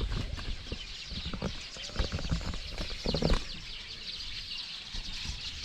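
A chorus of many small birds chirping and twittering together in high, rapid, overlapping calls. Irregular low knocks and rustles run beneath it, with a short, louder lower sound about three seconds in.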